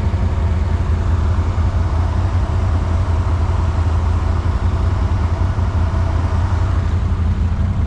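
ATV engine idling steadily, a low, even hum with no revving.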